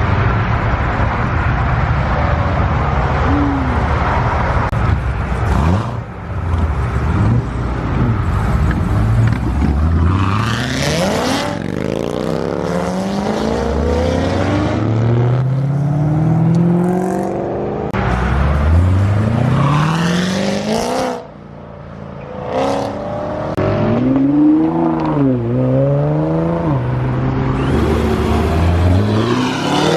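Loud car engines accelerating away, their pitch climbing and dropping back several times as they shift up through the gears, after a low rumble at the start. Near the end an engine is revved up and down twice.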